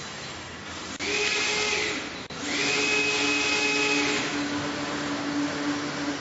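A machine or power tool whirring in two loud bursts, the second longer, each with a steady high whine. A lower hum carries on after it.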